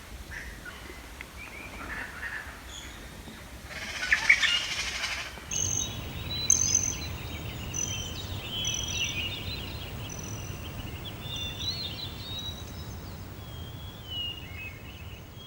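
Wild birds calling and chirping, with a loud rushing burst about four seconds in. From about five and a half seconds on, a steady low rumble runs under many short, high whistled bird notes and trills.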